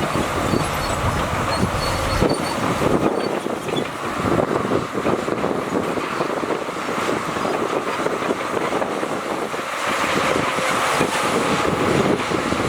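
Heavy diesel earthmoving machinery running at work, a dense rough mechanical noise; the deep low rumble drops away about two seconds in.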